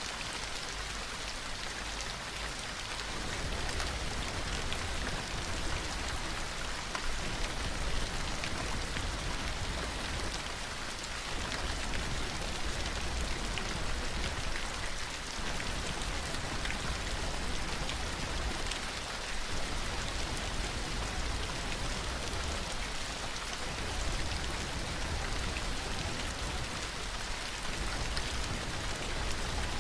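Steady rain falling, an even hiss with scattered individual drop ticks and a low rumble that swells and eases.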